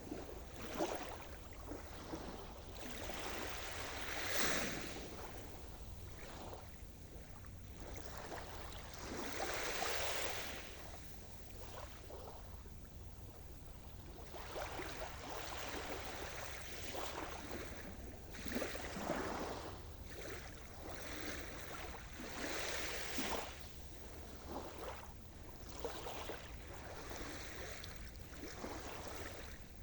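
Sea surf: waves breaking and washing in one after another, the hiss swelling and falling, with louder surges about 4, 10, 19 and 23 seconds in.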